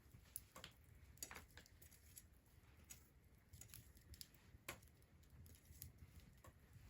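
Faint, sparse crackles and pops of a wood bonfire at irregular intervals over a low rumble.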